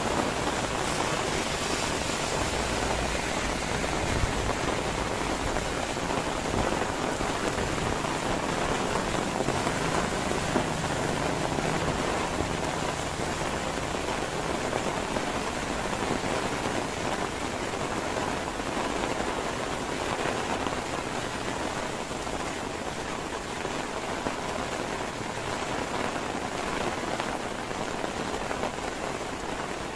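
Steady rain falling, an even hiss of many drops with no let-up, easing slightly in loudness near the end.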